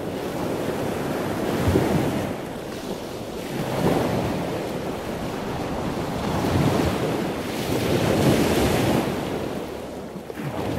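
Ocean waves washing: a steady rush of water noise that swells and eases every two to three seconds.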